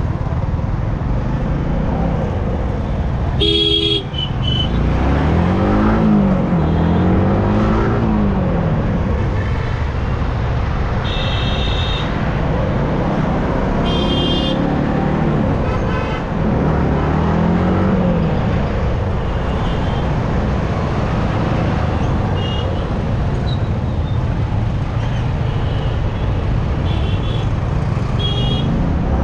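Yamaha R15 motorcycle riding on a highway, its engine rising and falling in pitch over a steady rumble of wind and road noise. Vehicle horns honk several times: a few seconds in, twice more in the middle, and in short toots near the end.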